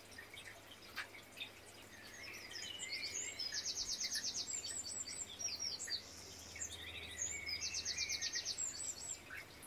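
Songbirds chirping and singing, with two fast trills of rapidly repeated high notes, one about three and a half seconds in and another near eight seconds, standing out as the loudest sounds.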